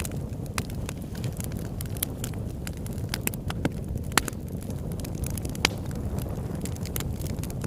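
Campfire burning: a steady low rumble of the flames with irregular sharp pops and crackles from the burning wood, about a dozen of them.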